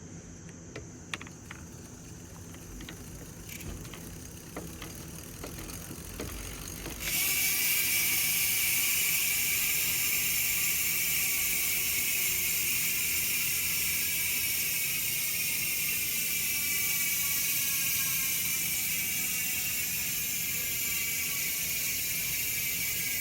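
Spank Hex Drive 102-tooth hub freewheeling. After a few scattered clicks, the wheel is spun about seven seconds in, and the freehub's pawl engagement sets up a loud, continuous high buzz. The buzz slowly drops in pitch as the wheel coasts down.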